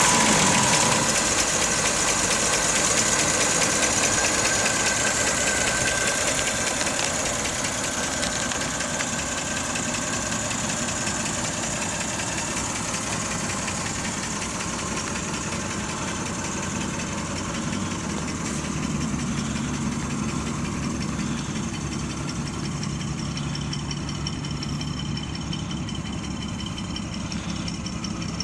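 The 1931 Chevrolet Independence's 194 cubic inch inline-six engine idling steadily.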